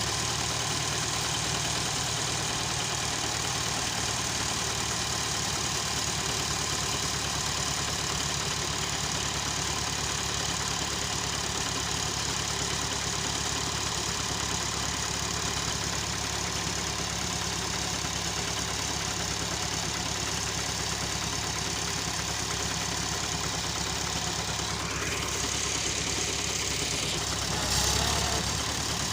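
Massey Ferguson 265 tractor's three-cylinder diesel engine running steadily with an even, knocking beat. A rising sound comes in about 25 seconds in, and the level swells briefly near the end.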